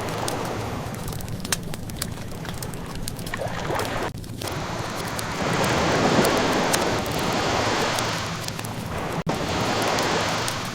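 Ocean waves washing in slow swells, one building to a peak around the middle, layered with the crackle and scattered pops of a burning wood fire.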